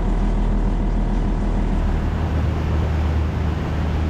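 Albin 28TE cruiser's inboard diesel engine running steadily under way, a low drone whose note shifts about two seconds in.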